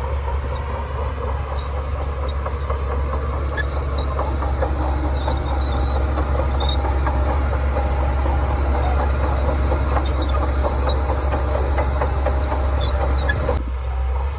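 Shantui DH17C2 crawler bulldozer's diesel engine running steadily under load, with a dense metallic clatter of its steel tracks; the clatter drops away suddenly about a second before the end while the engine hum goes on.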